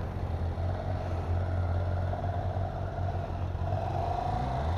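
Motorcycle engine running at low revs as the bike moves off: a steady low hum, with a faint whine that rises briefly near the end.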